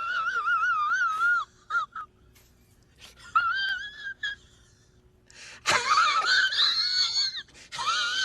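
A cat yowling: a series of long, high, wavering cries, about five in a row with short pauses between them. The longest and loudest comes about six seconds in.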